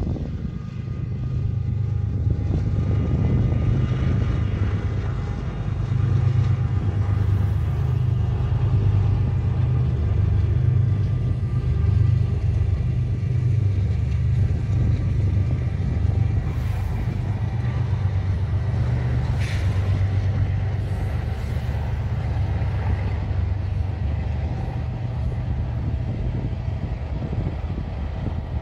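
BNSF freight train passing: the diesel locomotives' engines hold a steady low drone, with the rumble of the freight cars rolling on the rails and a few brief sharp knocks.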